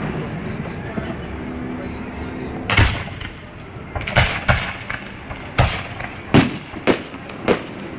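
Aerial firework shells bursting during a fireworks finale: a string of about seven sharp booms, beginning about three seconds in and coming closer together toward the end.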